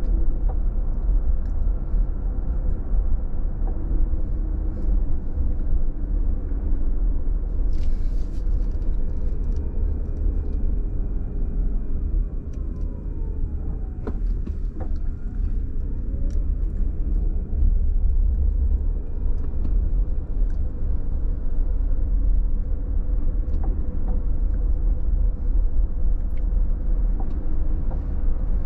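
Steady low rumble of a car driving, engine and tyre road noise heard from inside the cabin, with a few faint clicks.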